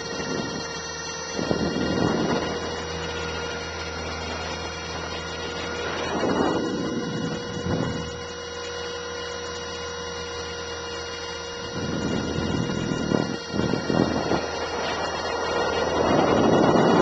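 Align T-Rex 450 electric RC helicopter in flight, heard from a camera mounted in its canopy: a steady whine from the motor, gears and rotors, with gusts of wind rushing over the microphone several times.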